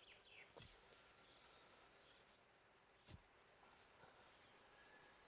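Near silence: faint rural outdoor ambience with a few high bird chirps and a rapid trill, and two soft knocks, about a second in and about three seconds in.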